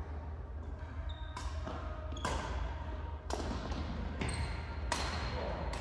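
Badminton rally: rackets strike the shuttlecock in a string of sharp hits roughly once a second, with brief shoe squeaks on the court floor, over a steady low hum.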